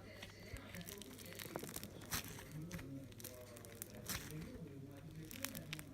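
Slime being kneaded and squeezed by hand, with irregular crackling and popping clicks.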